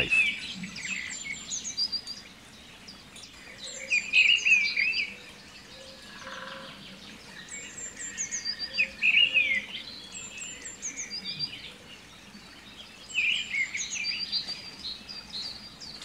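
Birds chirping and singing in clusters of quick high-pitched calls, several times over, with quieter stretches between.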